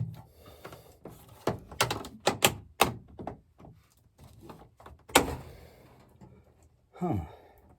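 Sharp knocks and clatters of hard objects being handled, in a quick irregular run, then one louder bang with a short ring about five seconds in.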